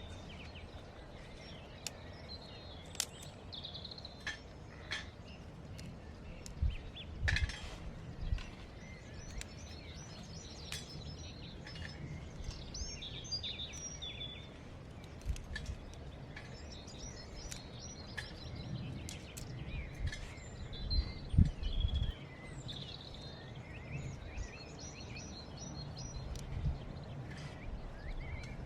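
Birds singing and chirping with many short phrases, mixed with scattered sharp clicks and clinks and a few low thumps, the loudest thump about 21 seconds in.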